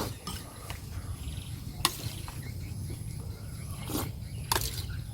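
Sounds of someone eating: four sharp clicks spaced irregularly, over a steady low hum.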